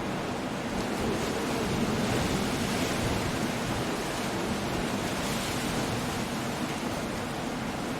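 Coastal storm: sea surf and wind making a steady rushing noise, swelling slightly a second or two in.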